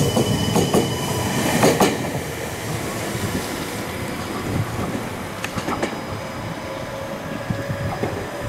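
Meitetsu electric commuter trains running. The 3500 series train's wheels click over the rail joints, loudest in the first two seconds. After that comes a quieter steady rail rumble with a few more wheel clicks.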